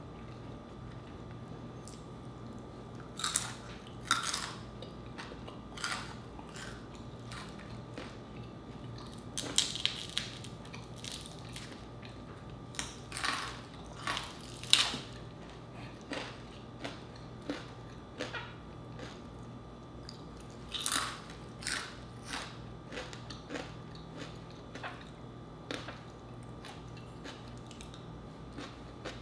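Crispy pata (deep-fried pork knuckle) being torn by hand and chewed: scattered sharp crunches of the fried skin, bunched in short runs with pauses between. A faint steady hum runs underneath.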